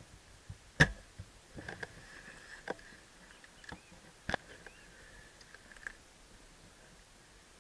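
A handful of sharp clicks and knocks at irregular intervals, the one near the start by far the loudest, with faint high chirping underneath through the middle.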